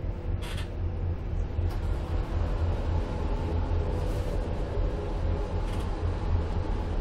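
Inside a Z2ABCMg-FPS passenger coach as the train runs into a station: a steady low rumble of wheels on rails and running gear, with a few brief sharp noises.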